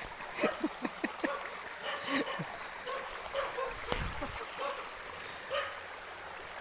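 River water running, with a quick run of short falling calls during the first second and a half and a single sharp knock about four seconds in.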